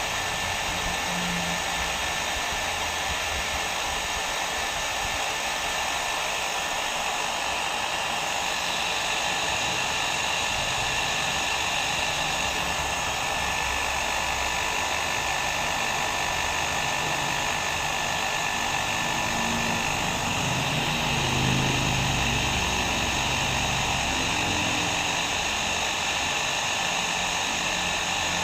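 Hair dryer running steadily: a continuous airy blowing hiss with a faint high whine held at one pitch.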